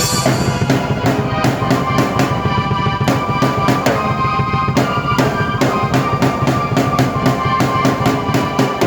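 Drum kit and keyboard played together by one performer: a busy, steady beat of kick, snare and cymbal hits under sustained keyboard chords.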